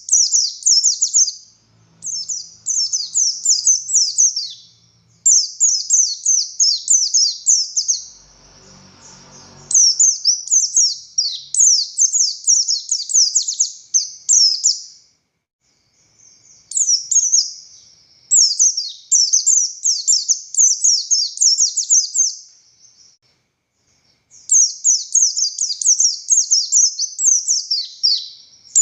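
Buxtoni white-eye singing long, loud bursts of rapid, high-pitched twittering, each phrase a quick run of descending chirps. The bursts are separated by short pauses, the longest about 15 s and 23 s in. A faint low rustle comes about 8 to 10 seconds in.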